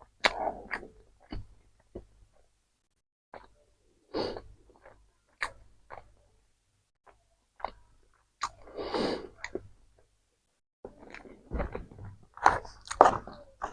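Close-miked eating of a KFC meal: chewing and biting with wet mouth clicks, in irregular short bursts that come thicker near the end.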